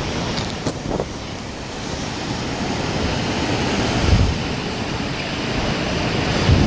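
Hurricane-force wind rushing steadily, with gusts buffeting the microphone, strongest about four seconds in and again near the end.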